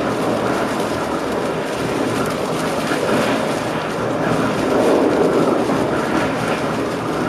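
Passenger train running along the track, heard from inside the driver's cab: a steady rumble of wheels on the rails that swells briefly about five seconds in.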